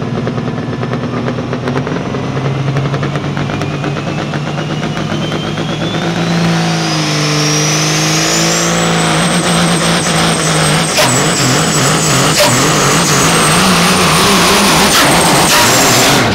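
Caterpillar 3406 diesel in a '78 Peterbilt semi running hard under load on a pull. A turbo whine climbs steadily for about eight seconds and then holds as a high scream, and the sound drops off sharply near the end.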